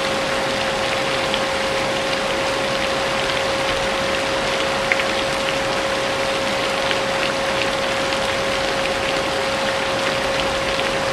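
Vacuum cleaner running steadily with a constant motor whine, mixed with rain falling, its drops ticking lightly over the hiss.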